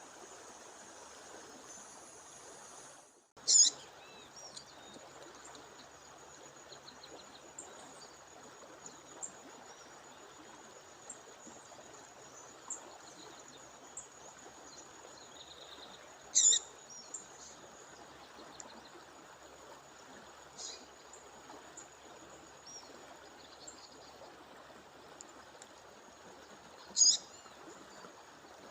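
A female bird calling: three loud, short, high calls spaced about ten seconds apart, with a few fainter chirps between, over the steady rush of a stream or waterfall. A thin steady high whine runs underneath.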